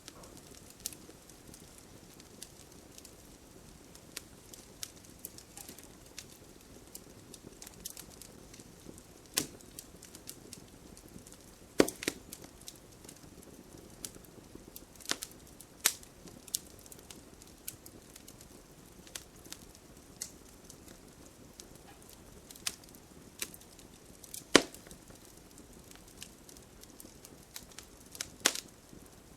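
Wood campfire burning: a soft steady hiss with irregular crackles and sharp pops, a few of them much louder than the rest.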